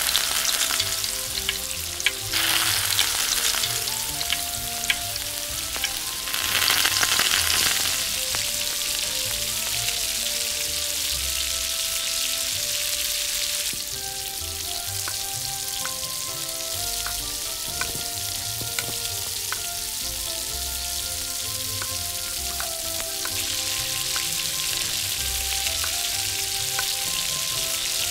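Hot oil sizzling as food fries in a miniature pan. It is louder for the first two seconds and again briefly around the seventh second, with a few light clicks of a utensil.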